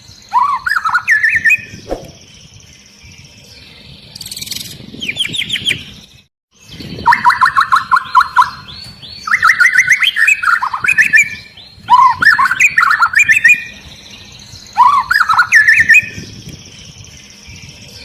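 White-rumped shama (murai batu) singing: loud bursts of rapid, sliding whistled notes in phrases a second or two long, several seconds apart, with a short total silence about six seconds in.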